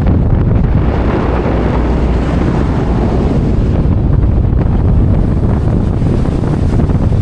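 Steady wind buffeting the microphone on the deck of a moving tour boat, over a low rush of water.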